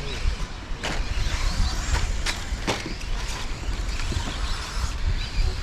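Radio-controlled stadium trucks racing on a dirt track: faint high motor whines that rise and fall, with a few sharp clicks and clacks, over a heavy low rumble of wind on the microphone.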